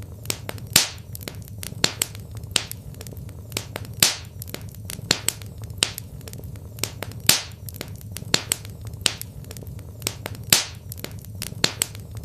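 Wood fire crackling in a fireplace: irregular sharp snaps and pops, several a second with a few louder cracks, over a low steady hum.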